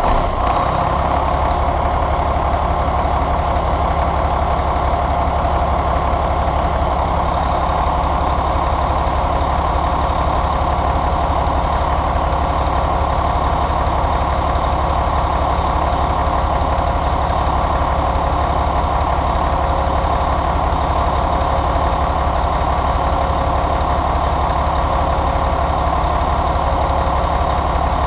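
Caterpillar 3176 inline-six diesel engine idling steadily just after being started, settling into an even idle within the first second.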